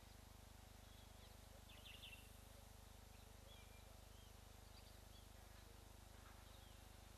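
Near silence with a few faint, short bird chirps and whistles, the clearest cluster about two seconds in, over a steady low hum.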